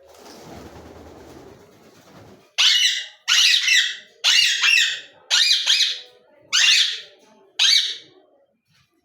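Pet parrot screeching: six loud, harsh squawks about a second apart, starting a couple of seconds in after a faint rushing noise.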